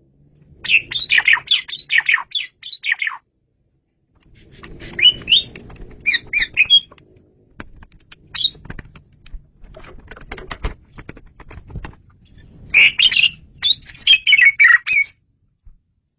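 Asian pied starling (jalak suren) singing loud and clear: bursts of rapid, varied whistles and chirps, with a run of dry clicking notes in the middle.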